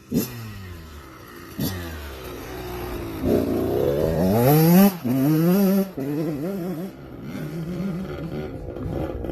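Motorcycle engine revving: two quick blips of the throttle, then a rising rev that peaks about halfway through, drops back to a lower, steadier running note, and starts climbing again near the end.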